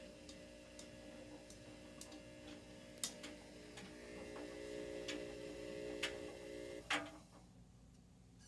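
All-in-one washer dryer combo running with a steady hum of several tones and scattered light ticks and clicks. Near the end a louder click comes as the hum stops.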